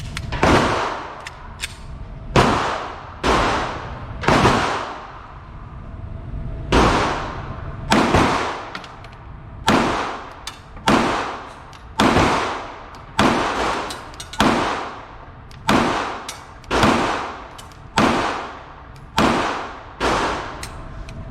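Pistol fire at a shooting range: about eighteen shots at a steady pace of roughly one a second, each with a long echoing tail.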